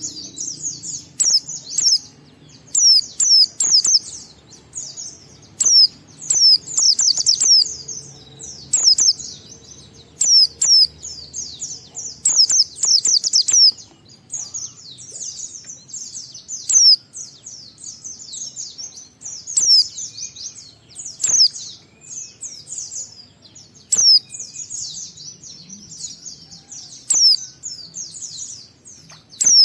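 White-eye (pleci) singing: rapid, high-pitched twittering phrases of a second or two each, one after another with short gaps, in the fast run-on 'ngalas' song style.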